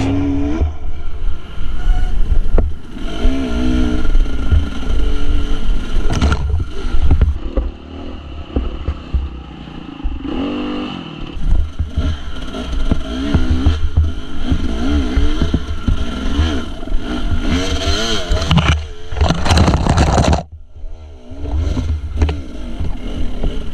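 Dirt bike engine revving up and down as the bike is ridden, its pitch rising and falling with the throttle. The engine briefly drops off about four fifths of the way through, then picks up again.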